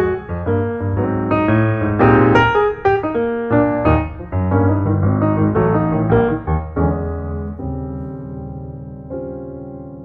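Solo piano music: a run of notes struck in quick succession that slows to a few held chords, fading away near the end.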